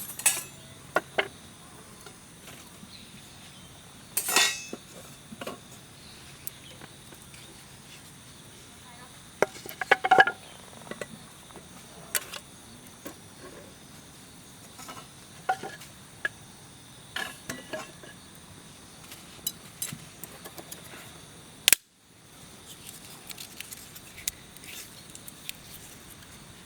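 Scattered light clinks and knocks of metal being handled, over a steady high trill of insects.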